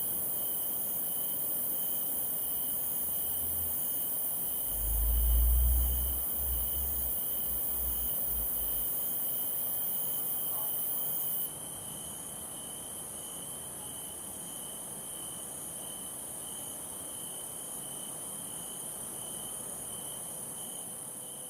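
Steady, evenly pulsing chirping of crickets over a high hiss, with a low rumble about five seconds in. The hiss drops in level about halfway through.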